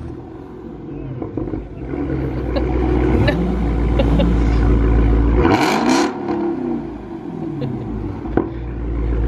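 A car engine rumbling, with a loud rev about five and a half seconds in whose pitch falls away over the following second, and a single sharp pop near the end.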